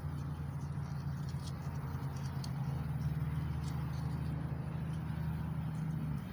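Steady low motor hum that cuts off near the end, with faint scratching and ticks from emery cloth being worked over a small block Chevy 350 crankshaft's connecting rod journals.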